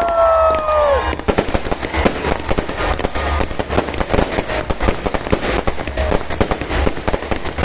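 Fireworks going off: a dense, rapid, irregular barrage of crackling bangs like machine-gun fire, beginning about a second in after a high whistling tone slides down in pitch and stops.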